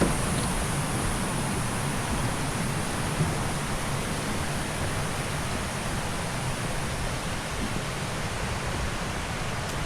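Steady rushing of a stream's cascading water: an even, unbroken hiss.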